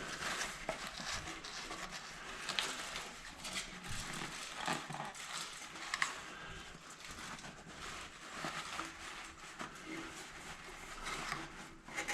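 Faint scattered rustles and light clicks of hands and tools being handled, over a steady background hiss.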